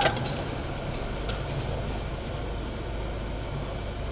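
Steady low hum of a car idling in city traffic, heard from inside the cabin, with a faint tick about a second in.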